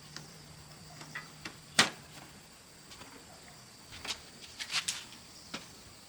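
A few sharp knocks and clicks: one loud knock about two seconds in, a quick cluster of them a little before five seconds, and one more shortly after.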